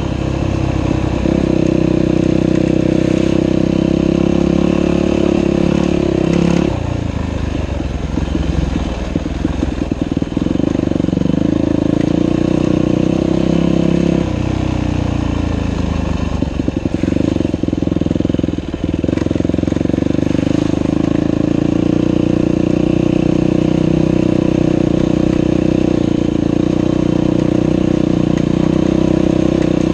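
Dirt bike engine running under steady throttle, going rough and uneven through the middle with its pitch dropping once, then pulling steadily again.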